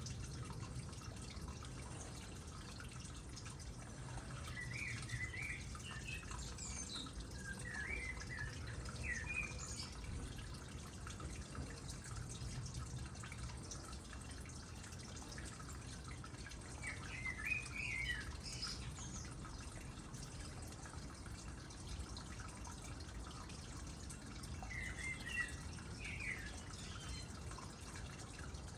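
Water trickling and dripping steadily into a small pond. Short bird chirps come in three brief spells, early, midway and near the end.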